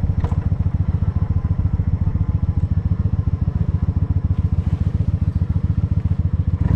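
Motorcycle engine running steadily with an even, low pulsing exhaust beat.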